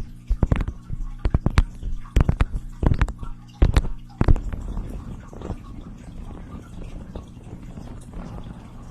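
Close-miked ASMR trigger sounds: a quick, irregular run of sharp clicks or taps for about the first four seconds, then a softer, steady crackle with only a few clicks, over a low steady hum.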